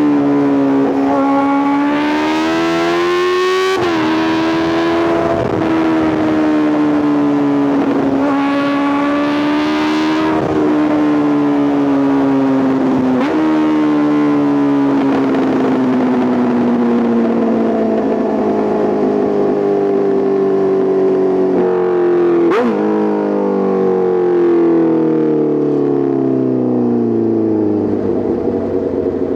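Honda CBR650R's inline-four engine through an Arrow Race Pro titanium full exhaust, pulling hard with the note climbing and dropping sharply at each upshift, three times. From about halfway it rolls off, the note falling steadily as the bike slows, with a sharp blip a little past two-thirds of the way through.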